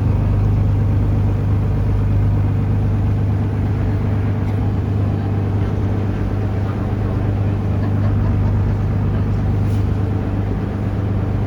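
Taxi boat's engine running steadily, a constant low hum.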